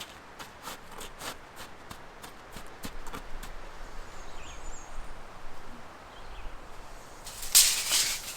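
A run of light, evenly spaced clicks, about three a second, fading out after a few seconds, with a few faint high chirps. A brief, louder rustling scrape comes near the end.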